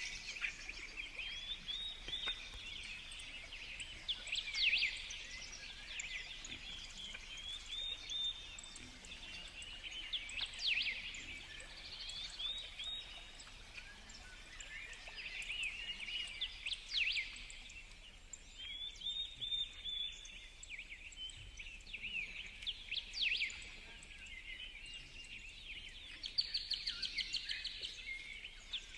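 Several songbirds calling and chirping in quick, overlapping short notes, with a fast, even trill near the end.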